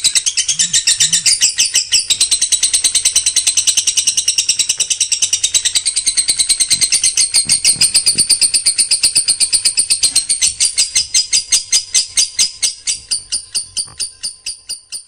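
Songbird giving a long, unbroken rapid-fire run of short, high, evenly spaced notes, the close-set 'tembakan' bursts prized in kicau-mania training recordings. It fades away over the last few seconds.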